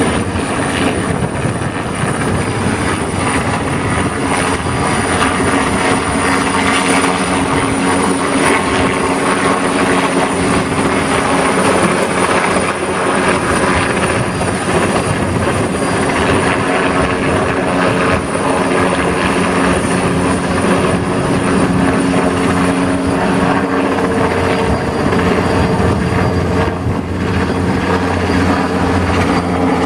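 A large fan-driven machine running steadily: a loud whir over a low hum with a few held tones, and no change in speed.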